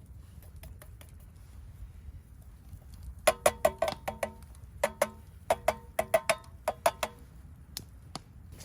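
A metal utensil clinking against metal cookware in two quick runs of ringing strikes, about eighteen in all: a short burst a little past three seconds in, then a longer one that stops around seven seconds.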